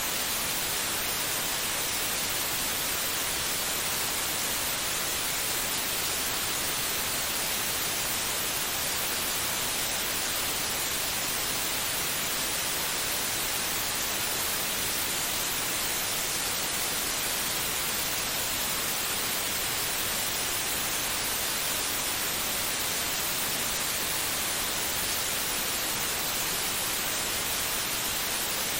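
Steady white noise: an even hiss with no rhythm, pitch or change, of the kind played to lull a baby to sleep.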